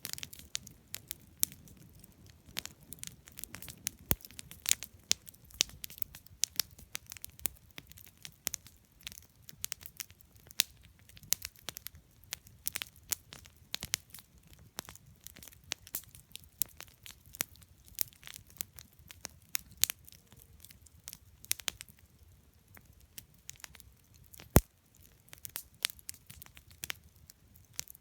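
Wood campfire burning, crackling with irregular sharp pops and snaps of burning wood, one louder pop near the end, over a faint low rumble of the flames.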